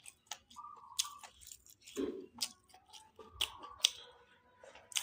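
A person eating grouper fish close to the microphone: wet chewing with irregular sharp mouth clicks and lip smacks.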